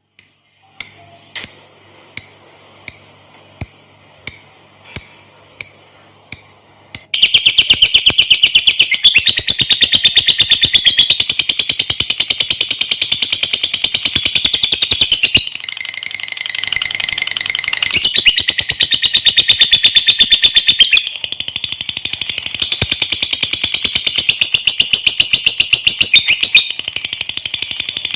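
Lovebird singing. First comes a run of short, sharp calls at an even pace, about three every two seconds. Then, about seven seconds in, it breaks into a long, very fast chattering trill (the 'ngekek panjang') that runs on with only brief dips.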